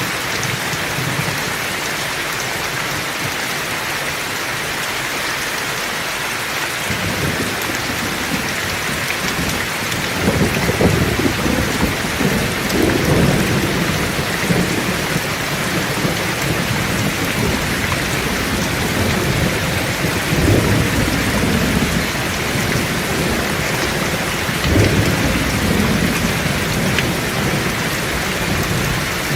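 Heavy rain falling steadily, with thunder rumbling in: the rumble builds about a third of the way through and swells again several times, strongest about a third of the way in and near the end.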